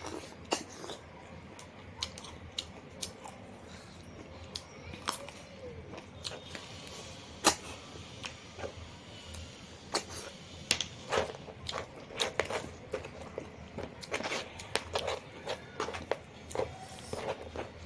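A person eating close to the microphone: chewing and biting, with irregular sharp clicks and crunches that come thicker in the second half.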